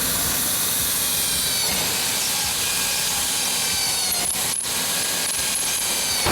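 A power tool cutting or grinding steel runs steadily, a loud high hiss and whine with the pitch shifting slightly. It breaks off briefly about four and a half seconds in.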